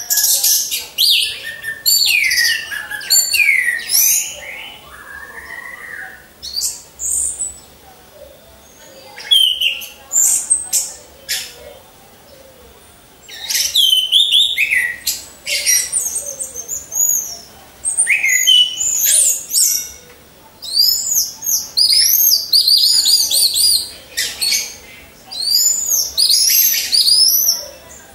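Orange-headed thrush (anis merah) singing loud, rapid phrases of sweeping whistled notes, each burst lasting a second or two with short pauses between.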